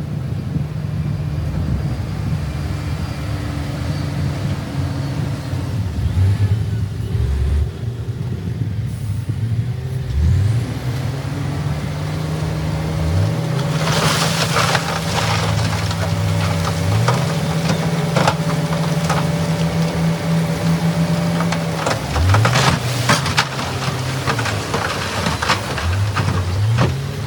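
Heavy diesel earthmoving machine running and revving repeatedly, its engine note sweeping up in pitch several times. From about halfway through come many sharp clatters and knocks over the engine.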